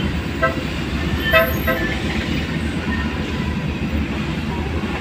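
A vehicle horn gives a few short toots, the loudest about a second and a half in, over steady traffic noise on the street.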